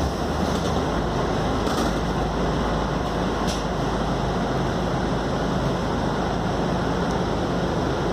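Scania K280UD double-decker bus under way, heard from inside: a steady engine drone with road and cabin noise.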